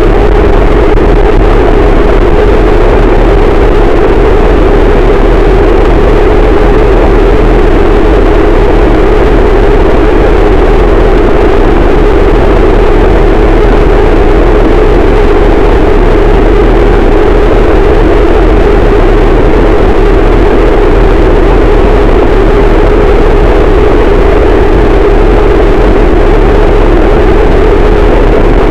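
Harsh noise wall: a dense, unchanging wall of heavily distorted static, very loud. Its weight sits in a low rumble and a thick midrange roar.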